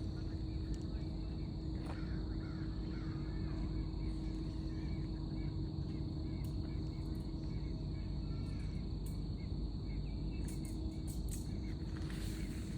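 Steady low outdoor background rumble with faint, scattered bird calls, and a few light clicks near the end.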